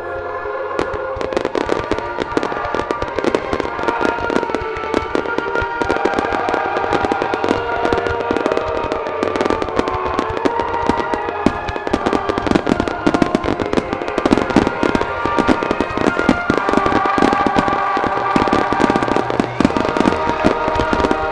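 Fireworks shells bursting in rapid, continuous volleys, many reports a second, thickening from about a second in, over the display's accompanying music.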